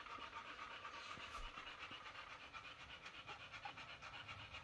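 A dog panting faintly in quick, even breaths.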